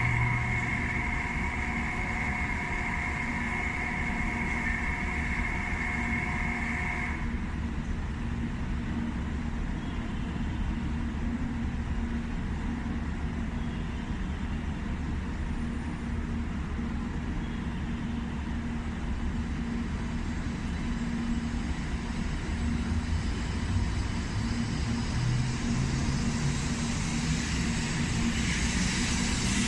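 A steady electronic warning tone sounds for about seven seconds and stops, over a low steady hum. An eight-car 700 series Shinkansen train then pulls out of the station, its running noise building toward the end with a rising hiss.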